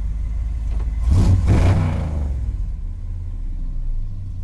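1968 Ford F250's 390 cubic-inch V8 running, revving up for about a second around a second in, then settling back to a steady low run.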